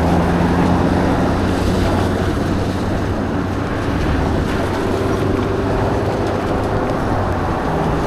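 Steady rushing wind noise on the microphone from riding a bike in the rain, with a constant low hum underneath.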